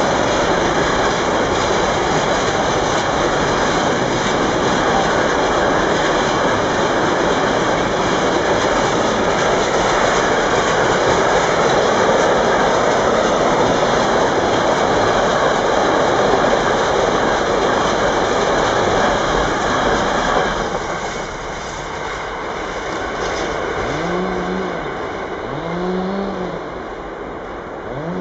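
Container freight train's wagons rolling past close by: steady loud rumble and clatter of wheels on the rails, which drops off suddenly about two-thirds of the way through. Near the end, three short tones that rise and then fall in pitch.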